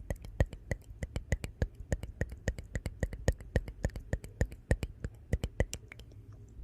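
Wood fire in a fireplace crackling: a quick, irregular run of sharp pops and snaps over a low steady rumble, the pops thinning out near the end.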